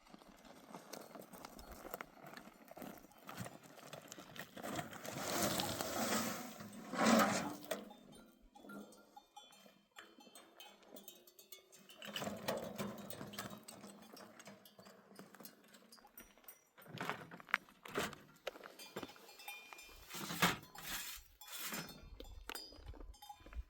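Sheep bells clinking irregularly as a flock moves about, with animal calls now and then, loudest about five to seven seconds in.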